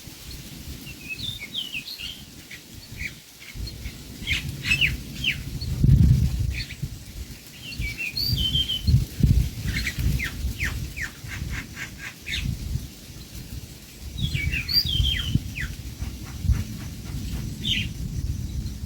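Small birds chirping in repeated clusters of short, quickly falling high calls, over a steady low rumbling noise.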